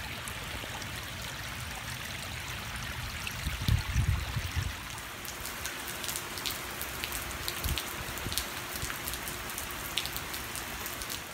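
Steady rain from an approaching hurricane falling on a paved driveway and garden shrubs, with sharp ticks of individual drops striking close by. A brief low rumble comes about four seconds in.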